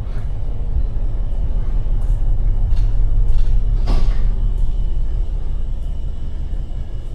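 Low, steady rumble of the liveaboard boat's engine.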